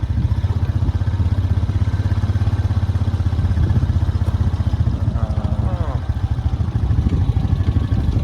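Vehicle engine running at low speed, a steady low rumble with a fast even pulse, mixed with strong wind buffeting the microphone. A short wavering higher sound comes through about five seconds in.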